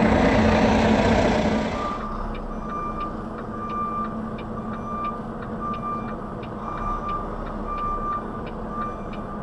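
Semi truck reversing with its back-up alarm beeping steadily, a little more than once a second, over the engine's running. The engine is louder for the first couple of seconds before the beeping starts.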